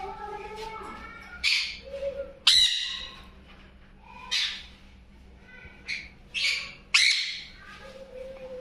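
Parrot squawking: several short, harsh calls at irregular intervals, with softer pitched calls at the start.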